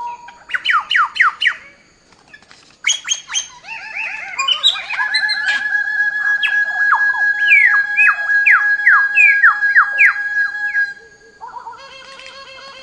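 A songbird singing runs of quick, downward-slurred whistled notes, over soft background music with steady held tones.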